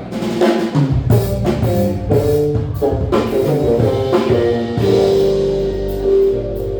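Live band music starting up: drum kit hits with bass and guitar chords, settling into a held chord near the end.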